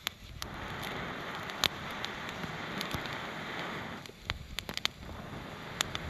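Campfire crackling: irregular sharp pops and snaps, a quick cluster of them about two-thirds of the way through, over a steady hiss.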